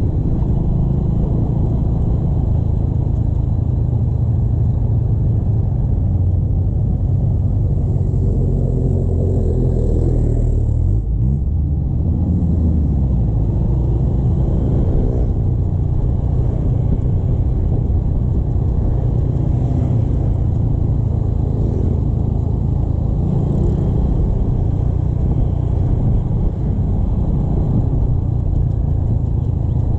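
Motorcycle being ridden on the road: a steady low engine and road rumble, with a rise and fall in engine pitch about eleven seconds in.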